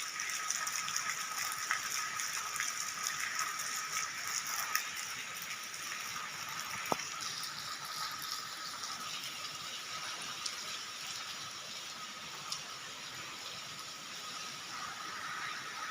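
Steady rain falling: an even hiss with the fine patter of drops, and a thin steady high tone underneath.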